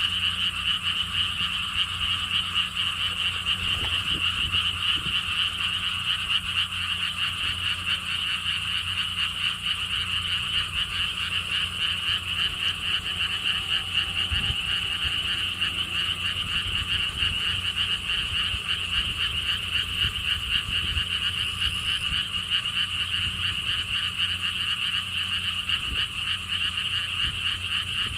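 A dense chorus of many frogs calling without a break, their fast pulsing croaks merging into one continuous sound, over a low steady rumble.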